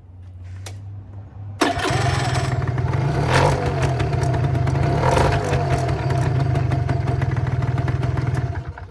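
Italjet Dragster 180 scooter's two-stroke engine cold-started on the electric starter: it fires about a second and a half in and catches on the first try. It then runs steadily, surging briefly twice, and stops shortly before the end.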